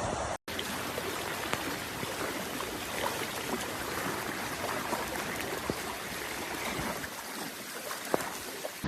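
Water rushing steadily, with a few small splashes or clicks; the sound cuts out briefly about half a second in.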